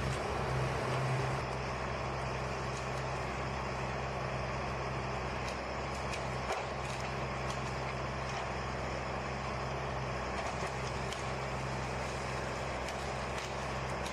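A heavy engine running steadily at an even speed, with a few faint clicks and knocks over it.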